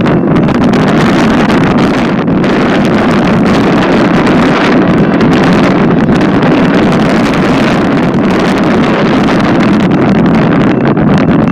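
Freight train rolling past close by: a steady, loud rumble of wheels and cars, with wind buffeting the microphone.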